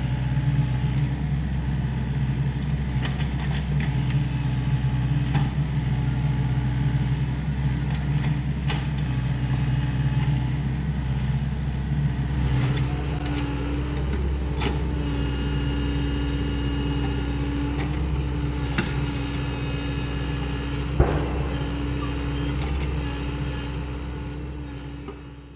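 Sany SY75 excavator's diesel engine running steadily, with scattered clicks and clanks of the working machine and one sharp knock about three-quarters of the way through. A steady whine joins about halfway, and the sound fades out at the end.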